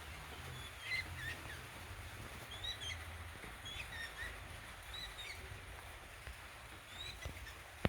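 Birds calling with short, high chirps, about one every second, over a steady hiss and a low hum, with a couple of sharp ticks near the end.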